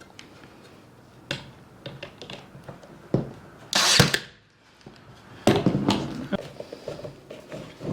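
Small nail gun fastening wooden boards: two loud shots about four and five and a half seconds in, among lighter knocks and scrapes of the boards being positioned.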